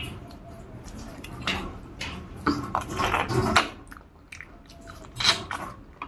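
Close-up eating sounds: a person chewing a mouthful of food, with wet smacks and clicks in irregular clusters, loudest in the middle and again near the end.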